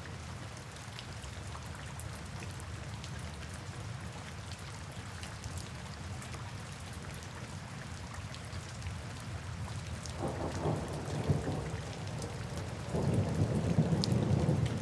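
Steady rain with scattered drops ticking, and low rumbles of thunder rolling in about ten seconds in and again near the end.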